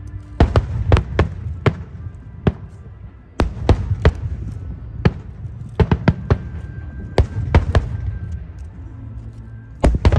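Aerial fireworks bursting: an irregular run of sharp bangs, some in quick clusters and some alone, each trailing into a low rumbling echo.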